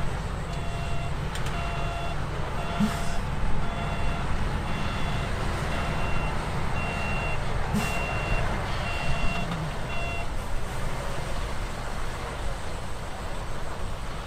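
Heavy diesel earthmoving machine running with its reversing alarm beeping, about one beep a second, until the beeping stops about ten seconds in; a couple of short knocks sound over the engine.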